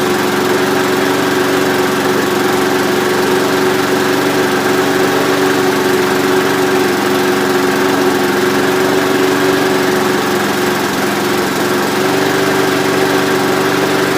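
Briggs & Stratton engine on a Rover rotary lawnmower running steadily at a fixed throttle on its first cold start after an engine change, its note sagging slightly about ten seconds in and picking up again near the end. The owner thinks the carburettor diaphragm might need changing.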